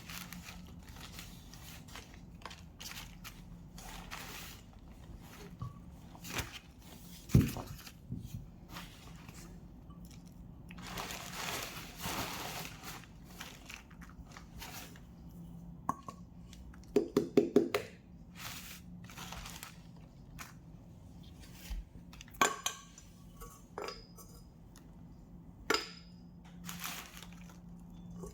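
Scattered knocks, clicks and rustling of objects being handled, with a longer rustle near the middle and a quick run of ticks about two-thirds of the way through.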